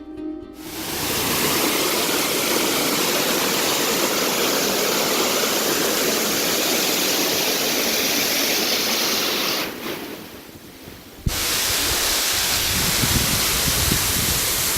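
The La Virgen waterfall's rushing water, a steady, loud rush. About ten seconds in it drops away for about a second and a half, then comes back abruptly with a low rumble added underneath.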